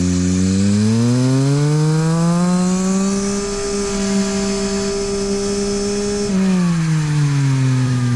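Yamaha MT-09 SP's 890 cc inline-three engine through a LeoVince exhaust, heard onboard. The revs climb over the first couple of seconds, hold steady for about three seconds, then fall away near the end as the throttle comes off.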